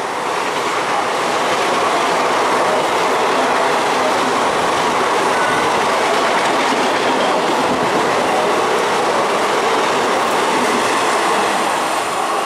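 Express train's passenger coaches rushing past at speed: a loud, steady rush of wheel-on-rail noise with rattling over the rail joints.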